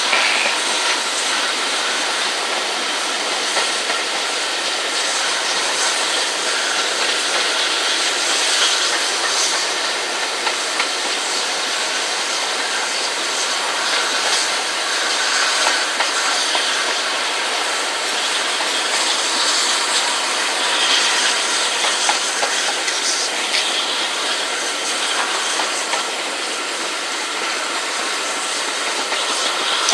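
Steam-hauled passenger train running along the line, heard from an open carriage window: a steady rush of wind and running noise, with wheels clattering over the rails.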